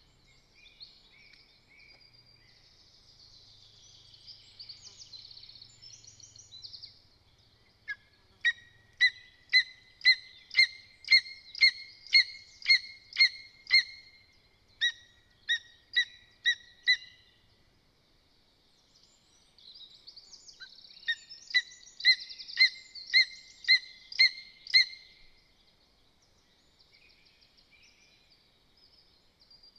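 Lesser spotted eagle at the nest calling a series of short, high, sharp notes repeated about twice a second, in two runs with a pause between them. Fainter songbird chatter is heard early on.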